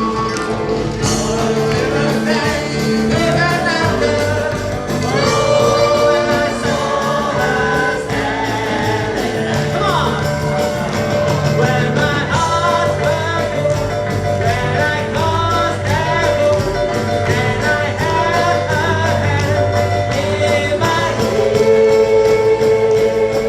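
Live band performing an encore song, with singing over the band's accompaniment and a steady beat.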